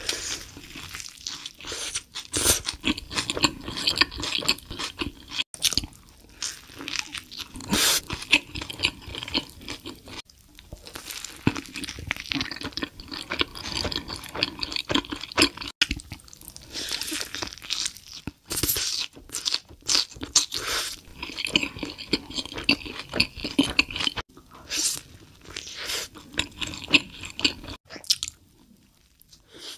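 Close-miked eating: big bites into a sesame-bun burger with lettuce and cheese, then chewing, a dense run of crisp crunches and mouth sounds that thins out near the end.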